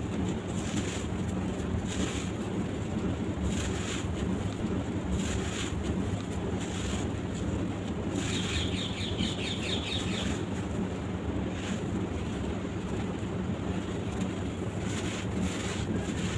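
Dry sand-cement clumps crumbling with scattered soft crunches, over a steady low rumble like wind on the microphone. A bird chirps rapidly about halfway through.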